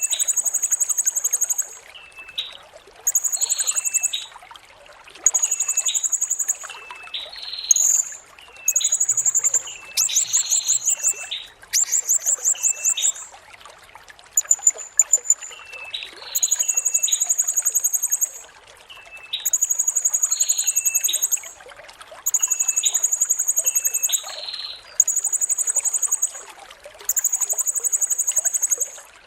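Blue-crowned hanging parrot (serindit) singing a long series of shrill, high phrases about two seconds each, repeated with short gaps, with shorter lower notes between them and a rapid pulsed trill about ten seconds in. Under it runs a steady trickle of water.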